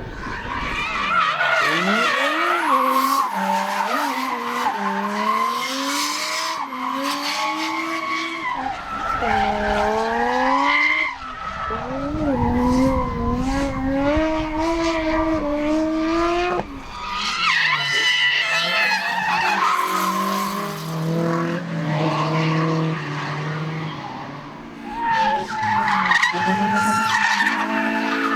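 Drift cars on track, their engines revving hard with pitch repeatedly climbing and dropping as the throttle is worked, and tyres skidding as they slide. Around two-thirds of the way through, an engine holds a steadier, lower note before climbing again.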